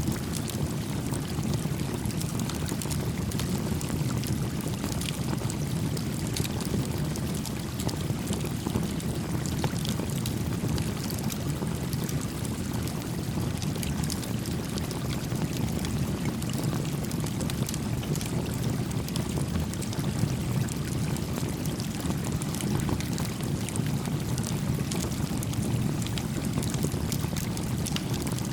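Small wood campfire crackling, with scattered sharp pops, over the steady low rush of a gently flowing stream.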